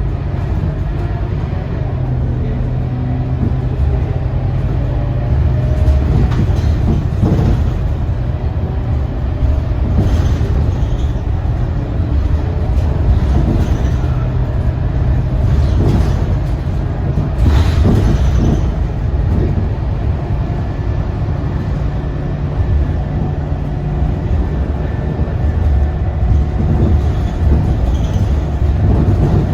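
Scania K230UB Euro V single-deck bus under way, heard from inside the cabin: a steady diesel engine drone with road rumble and a few brief knocks and rattles from the body.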